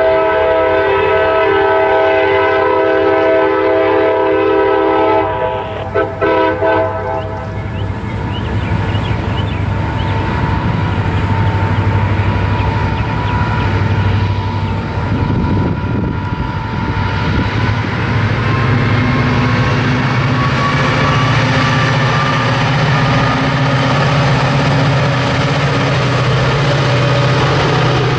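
CSX diesel locomotive's air horn sounding a loud chord of several steady tones, which cuts off about five seconds in after a couple of short blips. Then the locomotive's diesel engine rumble grows as it approaches and passes with its freight cars rolling on the rails.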